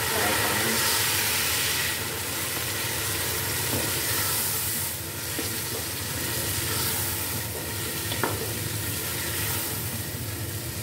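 Chicken pieces sizzling steadily as they fry in oil in a nonstick pot, stirred with a wooden spoon. A couple of light knocks come through, about four and eight seconds in.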